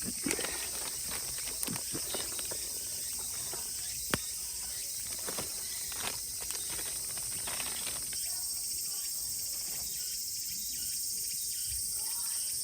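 Dense, steady summer insect chorus of cicadas. In the first eight seconds it is broken by scattered sharp clicks and crackles, the loudest about four seconds in.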